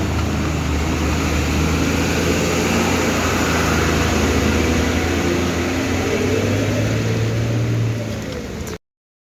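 A motor vehicle's engine running steadily, its pitch rising a little near the end, before the sound cuts off abruptly.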